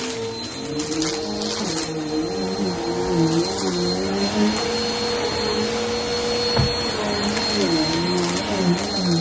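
Vacuum cleaner running over carpet while sucking up dry Fruity Pebbles cereal. The motor's pitch sways up and down as it is pushed back and forth, with a brief knock about two-thirds of the way through.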